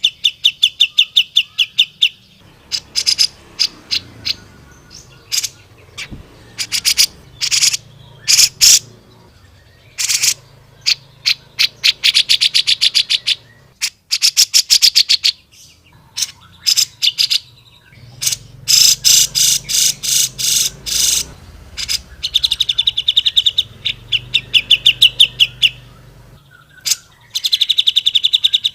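Cucak jenggot (grey-cheeked bulbul) singing in loud, fast trills of rapidly repeated notes. The bouts last a second or two each, with short pauses between them.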